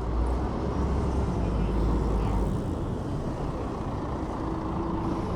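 Wind rumble on the microphone of a camera mounted on a moving e-bike, heaviest in the first couple of seconds and then easing, over city road traffic noise. A short steady hum comes in about four seconds in.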